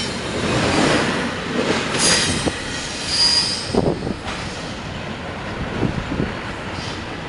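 Railroad cars rolling past on the track, wheels squealing with high tones over the rumble and scattered knocks, easing somewhat after about four seconds.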